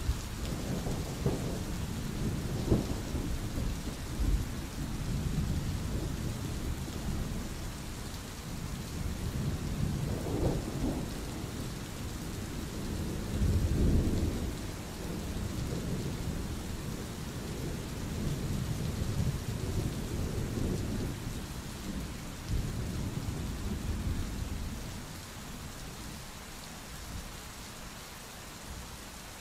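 Steady rain with rolling thunder: low rumbles swell and fade several times over the hiss of the rain, the loudest about halfway through.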